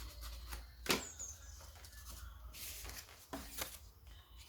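Paper being handled: a sharp tap about a second in, a brief rustle of the folded sheet, and a couple of light knocks. A short, high chirp sounds just after the tap.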